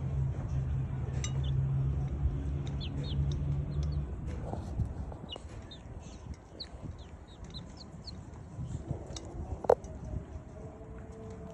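Chickens at feed: many short, high, falling chirps with a longer, lower call near the end. A low steady hum runs under the first four seconds, and there is one sharp click about ten seconds in.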